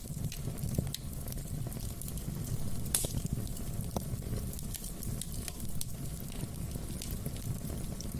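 Wood fire burning in a fireplace: a steady low rumble of flame with scattered sharp crackles and pops, one louder pop about three seconds in.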